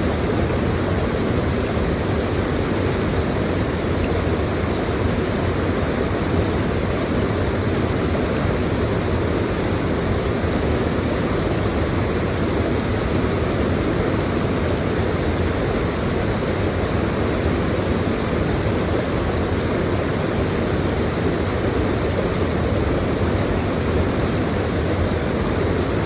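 Waterfall: water falling and splashing in a steady, loud rush, deepest in the low and middle range.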